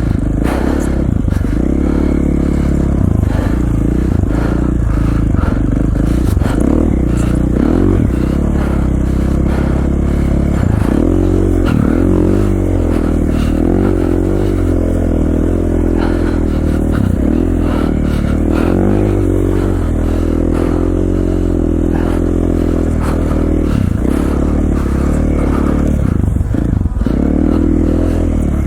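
KTM 450 XC-F dirt bike's single-cylinder four-stroke engine running under load while ridden, the revs rising and falling again and again as the throttle is worked, with some clattering and scraping.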